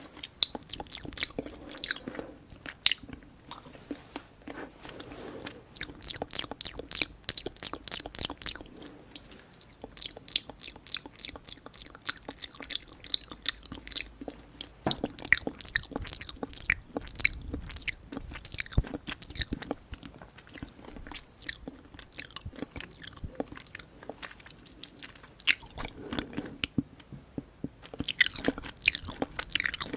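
A person chewing and biting food close to the microphone, with runs of quick, sharp mouth clicks that come in spurts and quieter chewing in between.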